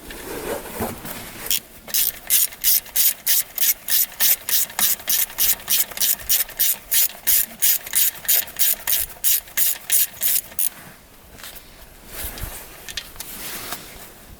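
Ratchet wrench being worked in quick, even strokes, about three or four a second, for about nine seconds, as a fastener is unscrewed; it stops near the end, leaving light handling of parts.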